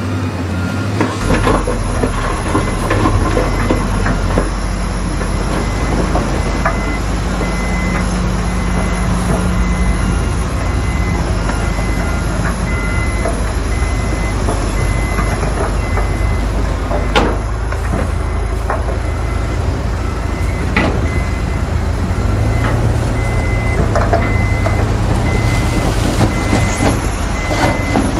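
Heavy diesel construction machinery running steadily, with a few sharp knocks. A reversing alarm beeps steadily through the last third.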